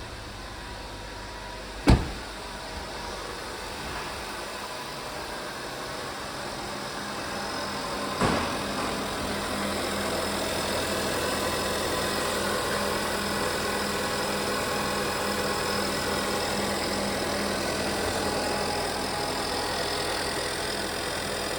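2016 Ford Edge 2.0L turbocharged four-cylinder engine running steadily at idle. There is a sharp knock about two seconds in and another about eight seconds in, after which the engine runs a little louder.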